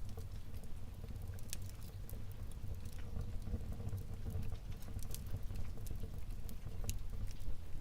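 Wood fire burning in a fireplace: a steady low rumble of flames with scattered sharp crackles and pops from the burning logs, a few louder than the rest.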